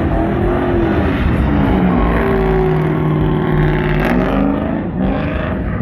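Pickup truck engine revving hard while spinning donuts, its pitch rising and falling over a steady rush of noise.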